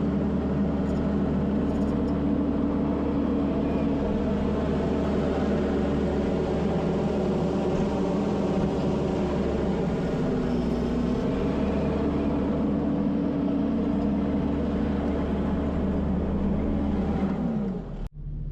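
Kubota SVL75-2 compact track loader's diesel engine running steadily under work. Its pitch dips briefly about ten seconds in and falls away near the end.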